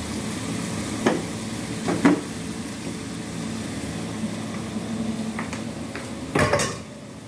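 Tempeh, bitter melon and anchovies sizzling in a wok while a spatula stirs through them, scraping the pan about one and two seconds in. A short louder noise comes near the end, after which the sizzle drops off.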